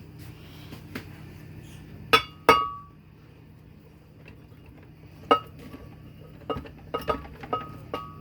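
A metal utensil clinking against kitchenware as roasted butternut squash is scooped into a blender: sharp, briefly ringing clinks, two loud ones close together about two seconds in, one more past the middle, and a run of lighter ones near the end.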